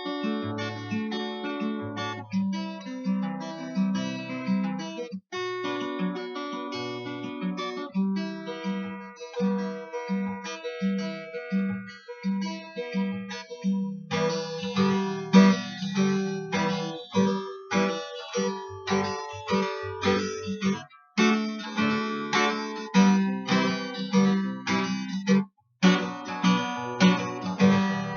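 Acoustic guitar playing the accompaniment of a song, chords strummed in a steady rhythm, with a few brief breaks.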